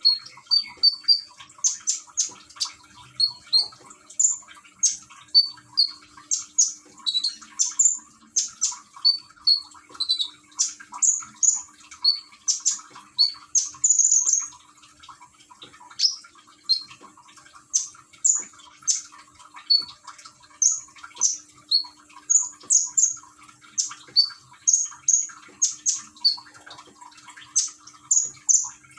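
Konin songbird chirping persistently, short sharp high notes about two a second, many dropping in pitch, over a steady trickle of water.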